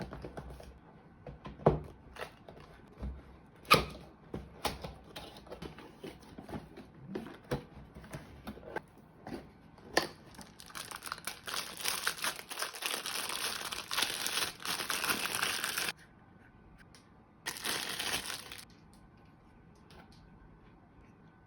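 Unpacking a boxed cordless vacuum cleaner: plastic wrapping and cardboard crinkled and handled, with scattered clicks and knocks of parts. About halfway through comes a few seconds of dense, steady rustling hiss that cuts off suddenly, then a shorter burst of it.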